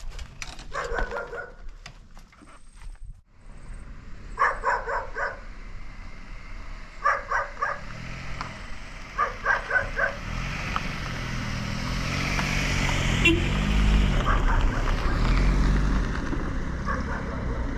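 A dog barking in quick runs of three or four barks, four times over the first ten seconds. In the second half a motorcycle engine grows louder, its pitch rising and falling.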